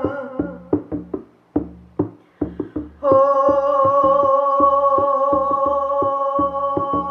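Shamanic hand drum beaten in uneven strokes, then about three seconds in a steady held vocal tone starts over a more regular beat of two to three strokes a second.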